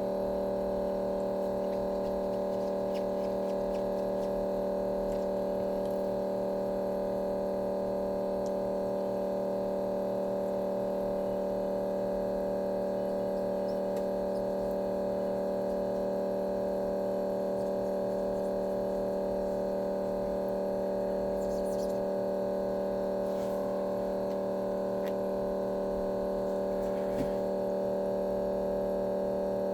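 A steady electrical hum with several even overtones and no change in pitch, with a few faint ticks in the second half.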